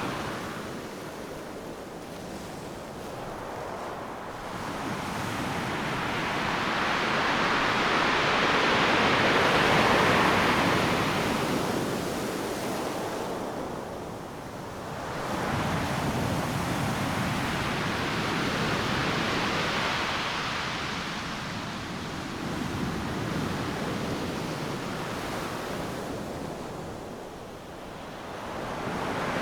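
Ocean surf breaking on a beach: a hissing wash of waves that swells and falls, loudest about a third of the way in, building again just past the middle and ebbing near the end.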